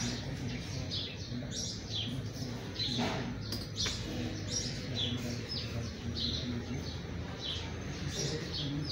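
Small birds chirping: short, high, falling chirps about twice a second, over a steady low rumble.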